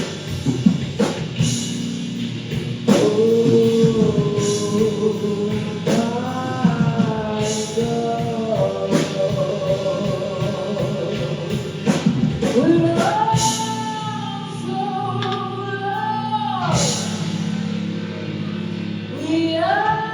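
A band playing a song: a singer holds long, wavering notes over drums and bass.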